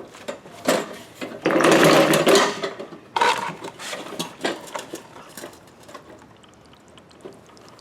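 Irregular knocks, clicks and clatter of a push mower being handled, with a loud rushing scrape about a second and a half in.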